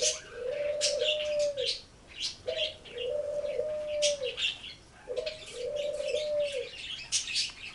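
Birds calling: three long, even, mid-pitched calls, each about a second and a half and evenly spaced, with short high chirps scattered among them.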